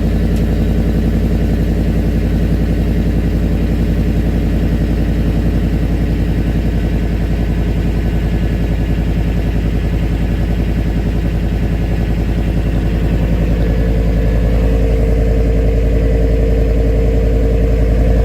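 Ford 5.4-litre V8 idling steadily after a cold start, heard through an exhaust with no catalytic converters, a Magnaflow muffler and an over-axle resonator. About two-thirds of the way in it grows a little louder and takes on a higher tone.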